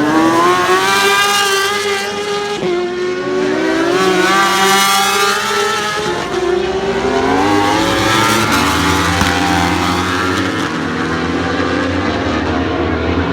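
Superbike racing engines revving hard at high rpm, their pitch climbing in long sweeps through the gears as the bikes accelerate, then several bikes' engines overlapping.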